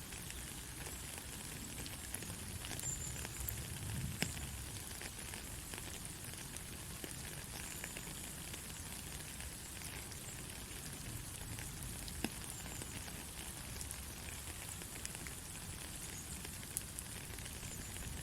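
Steady rain falling in a forest: an even hiss with scattered ticks of drops and a low rumble underneath. A few brief, faint high peeps sound now and then.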